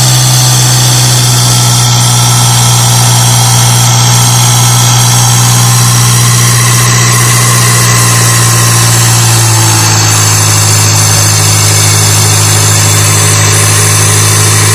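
VW Amarok diesel engine running steadily at raised revs during an EGR cooler leak test.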